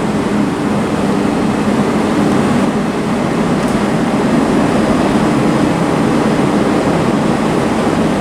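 A train standing at the platform, its equipment humming steadily with a low drone and no change in loudness.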